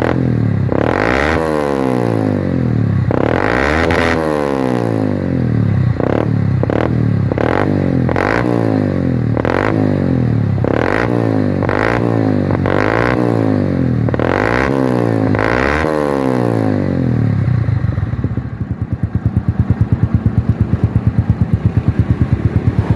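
Old Yamaha Vixion's 150 cc single-cylinder engine through a stock muffler drilled out with a half baffle and 45 mm outlet, revved in about a dozen quick blips, each rising and falling. From about 18 s in, it settles into an even, pulsing idle with the choppy 'chack' exhaust note.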